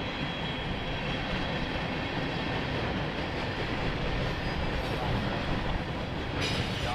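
Train cars rolling past on the rails: a steady rumble of wheels on track, with a short high-pitched burst near the end.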